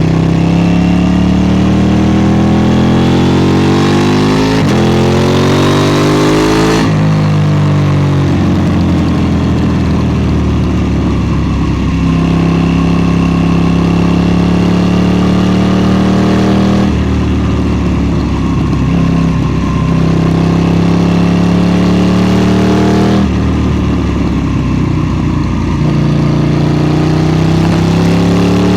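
KTM 790 Duke's parallel-twin engine under hard acceleration, its pitch climbing through a quick gear change about five seconds in and again, then dropping away as the throttle closes. It then runs at a steadier, lower pitch, with a few more sudden shifts in engine note.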